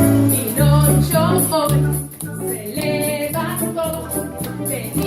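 Live band music: a voice singing over a plucked bass line, with a shaker keeping the beat.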